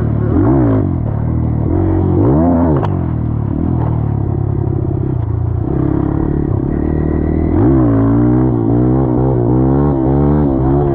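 Dirt bike engine running under riding load, its revs rising and falling several times, with a quicker run of rev rises and drops near the end. A single sharp click about three seconds in.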